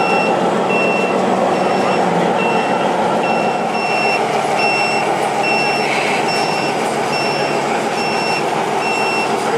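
Reversing beeper of an RC model truck sounding a steady series of short high beeps, about one and a half a second, over the constant murmur of a crowded exhibition hall.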